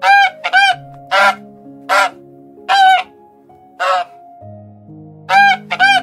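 Waterfowl giving loud, harsh honking calls, eight short calls at uneven spacing, the first two and last two coming in quick pairs. Soft sustained background music plays underneath.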